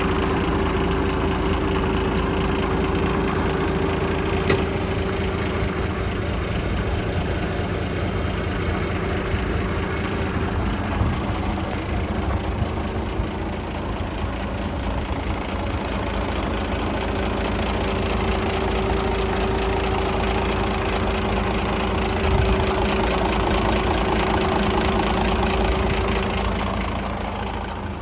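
Mitsubishi Fighter dump truck's 6D15 straight-six diesel engine idling steadily.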